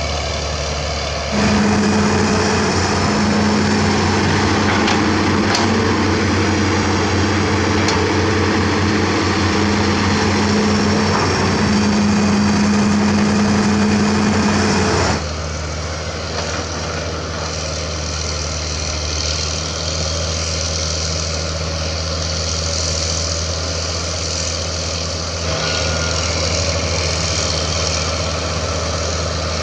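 Diesel engines of heavy crawler earthmoving machines, a bulldozer and an excavator, running steadily at work. The engine sound steps up suddenly about a second and a half in and drops back about fifteen seconds in, with a smaller change near the end.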